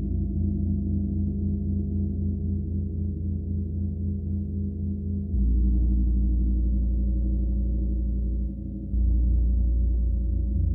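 Gong sounding as a sustained low drone of many overlapping, slowly pulsing tones; the deepest tones swell about five seconds in and dip briefly a few seconds later.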